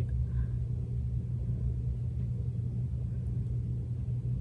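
Steady low hum with a faint rumble beneath it, unchanging throughout.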